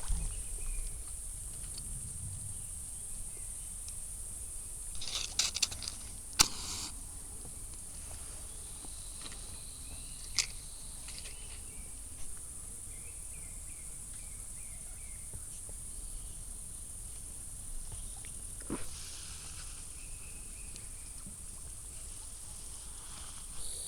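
Insects chirring steadily in a high, unbroken drone, with a few sharp clicks or taps scattered through, the loudest about six seconds in.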